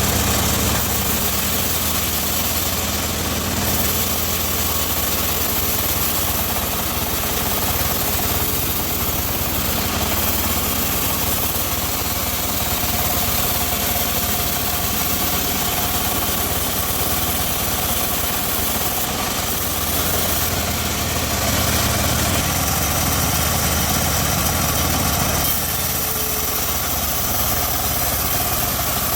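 Home-built bandsaw sawmill running steadily, a constant machine drone with a low hum.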